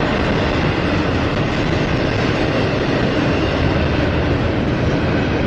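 Double-stack intermodal freight train's well cars loaded with shipping containers rolling past, steel wheels running on the rails with a steady, unbroken noise.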